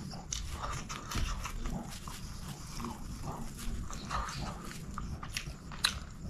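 Close-miked eating: wet chewing and lip smacking as chicken biryani is eaten by hand, with a run of small irregular mouth clicks and one sharp click just before the end.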